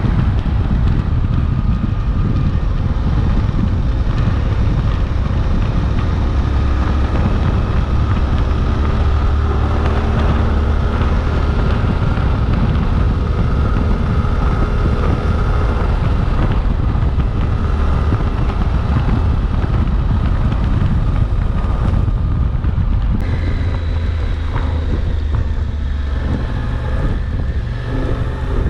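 Suzuki V-Strom 800DE's 776 cc parallel-twin engine running steadily under way, with wind noise on the microphone. The engine eases off slightly near the end.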